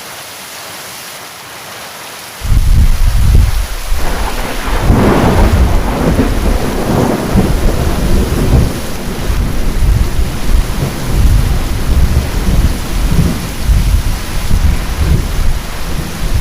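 Steady heavy rain, then about two and a half seconds in a loud thunderclap breaks in and rolls on as a long, low rumble over the rain, crackling most sharply a few seconds after it starts.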